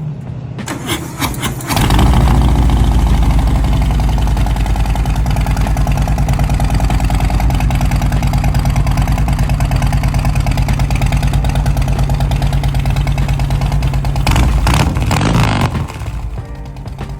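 Harley-Davidson Milwaukee-Eight 107 V-twin firing up through aftermarket Samson dual fishtail exhausts after a short crank, then idling with a steady, even loping beat. Near the end the sound rises briefly before the engine is shut off.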